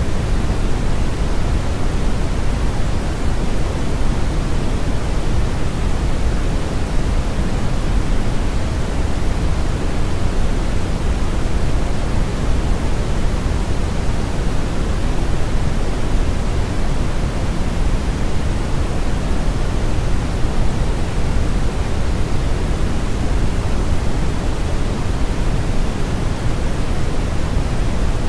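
Brown noise, generated and steady: an even, deep rushing hiss, strongest in the bass and falling away toward the treble, with no changes or events.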